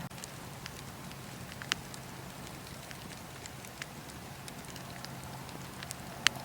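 Wood fire in a fireplace crackling, with scattered sharp pops. The loudest comes near the end and another about two seconds in, over a low steady hum.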